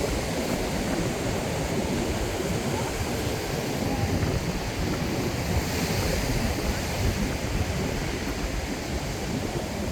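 Ocean surf and strong wind buffeting the microphone, a steady rushing noise with gusty low rumble.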